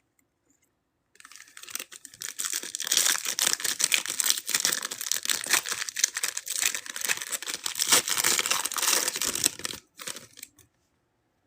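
A trading-card pack wrapper being torn open and crinkled by hand, a dense crackling rustle that starts about a second in and stops shortly before the end.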